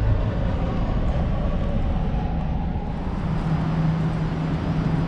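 Steady engine and road noise of a moving vehicle, with a low steady hum joining about three seconds in.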